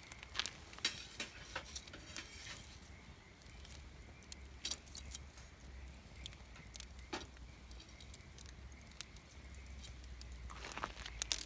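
Wood campfire crackling, with scattered sharp pops and snaps over a faint low rumble. Near the end the crackling thickens into a brief cluster of rustling clicks.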